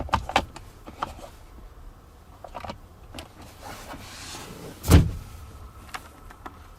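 Plastic clicks and knocks from handling a car's rear centre armrest and its cup holders, with one loud thump about five seconds in.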